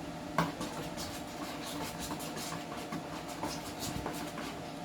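A steady mechanical hum from a kitchen appliance, with scattered light clicks and taps of cookware being handled.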